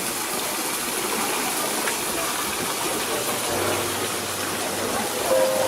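Steady rushing of running water, an even noise that holds unchanged throughout.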